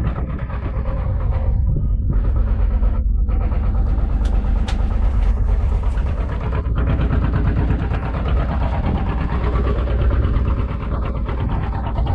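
Engine on a small fishing boat running steadily, a continuous low drone, with a few faint clicks about halfway through.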